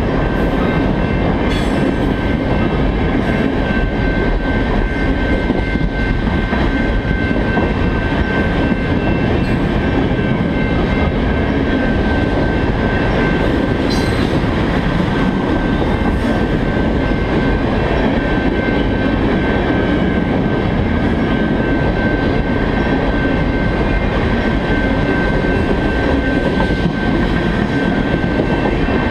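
Crude-oil tank cars of a freight train rolling past: a steady rumble of wheels on rail with a thin, steady high-pitched ring and a few sharp clicks, one about halfway through.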